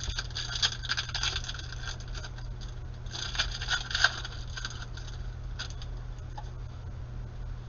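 Trading cards and foil pack wrappers being handled: two spells of crackly clicking and sliding, the second ending in a sharp click about four seconds in, over a steady low hum.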